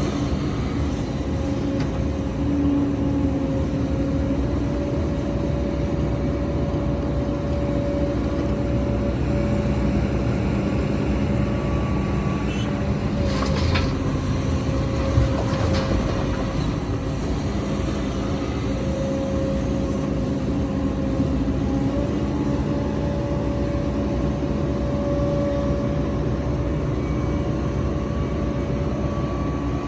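Heavy diesel engine of an excavator running steadily at work, with a few short metallic knocks near the middle.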